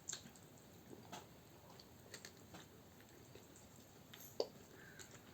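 Faint chewing and mouth sounds of someone eating, with soft scattered clicks and one brief louder click about four seconds in.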